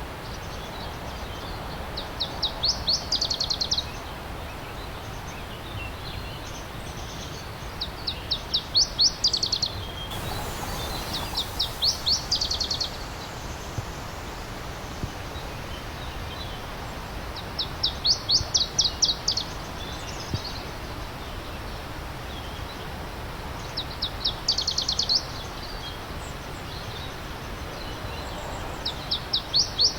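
A songbird repeats a short song of rapid high notes about every five or six seconds, six times in all. Under it runs the steady rush of a stream.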